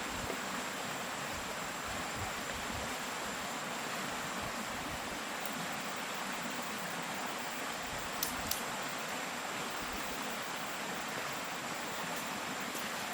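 Steady rushing of flowing water, with a thin, high, steady tone over it. Two faint clicks come about eight seconds in.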